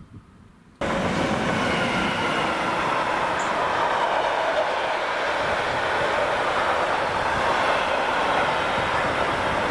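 Freight train wagons rolling past close by: a loud, steady rush of steel wheels on rail that sets in abruptly about a second in.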